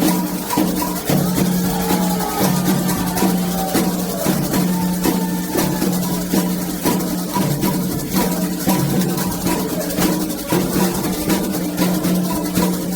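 Candomblé ritual music: atabaque hand drums beating a fast, even rhythm, with a metal bell (agogô) striking a repeated pattern and voices singing over it.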